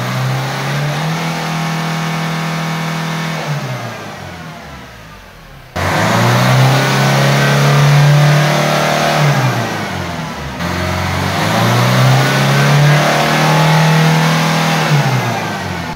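A Ford car's four-cylinder diesel engine is snap-revved three times for the flush stage of a free-acceleration smoke test, which blows soot out of the exhaust before the measurement. Each time the engine note climbs quickly to full revs, holds there for about three seconds, then falls back toward idle.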